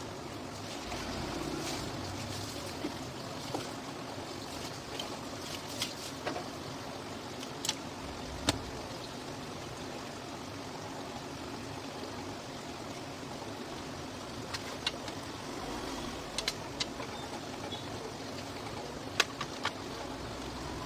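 Scattered sharp clicks and taps of small parts being handled and fitted together, over a steady background hum and hiss.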